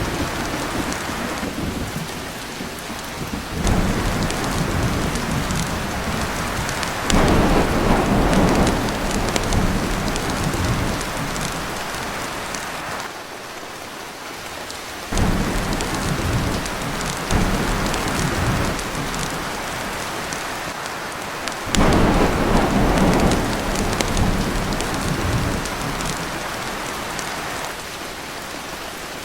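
Heavy rain falling on a tin roof, with thunder rumbling in suddenly four times over a steady downpour.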